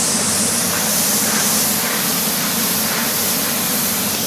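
Steady hiss of car wash water spray, with a low hum underneath.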